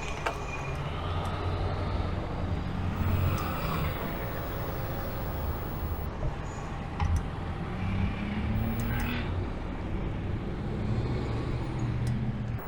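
Road traffic heard while riding: cars passing over a steady low rumble of wind and road noise. A vehicle's engine tone rises slightly about eight seconds in.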